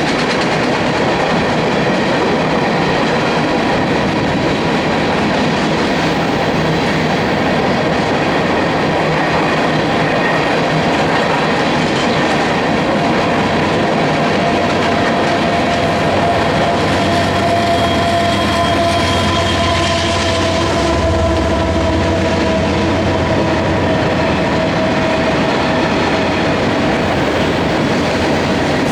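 Union Pacific freight train's cars rolling past, a loud, steady rush of wheels on rail with clickety-clack over the joints. In the second half a faint high ringing tone sits over the rolling noise.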